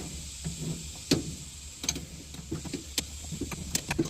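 Light clicks and knocks at irregular intervals over a steady low hum: hands handling parts in the mini excavator's control area.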